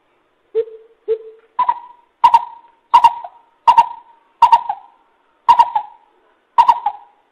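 Coucal calling a series of hollow hoots: two lower notes, then about seven higher notes at an even pace.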